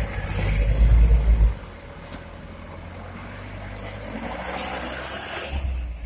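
Heavy diesel engine revving hard for about a second and a half, with a high hiss over it, then settling to a steady run. A second surge with hiss comes near the end.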